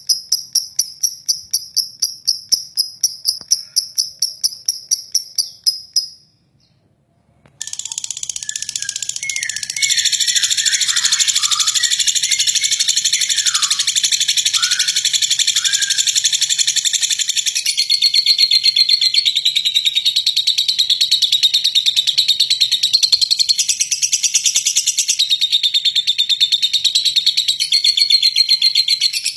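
A rapid, evenly pulsed high chirping, then a break of about a second and a half. After it comes a lovebird's long, continuous, rough chattering trill, the 'ngeklek' song, with a few lower sliding notes in the first part.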